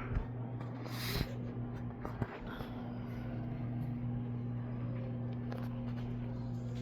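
A steady low hum in a room, with a few faint knocks and a brief rustle about a second in.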